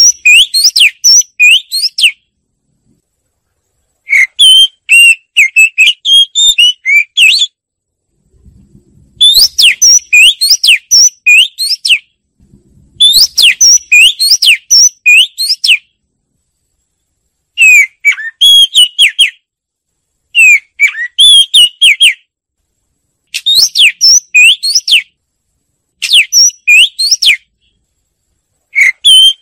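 Oriental magpie-robin singing: a string of loud, varied whistled phrases, each a second or few long, with short pauses between them.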